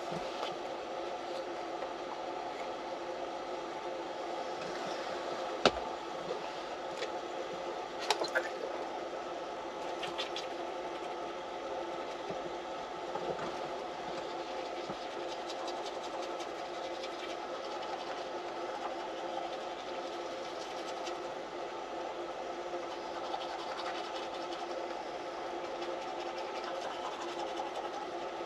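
Parked semi truck's engine idling, a steady mechanical hum, with a few faint clicks about six and eight seconds in.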